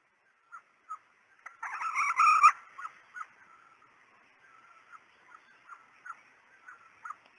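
Female red junglefowl clucking in short, scattered notes, with a louder run of cackling notes about two seconds in.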